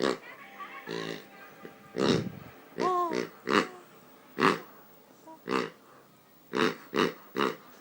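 A person imitating a pig, making short snorting oinks over and over, about nine in all, with a pitched, falling voiced sound about three seconds in.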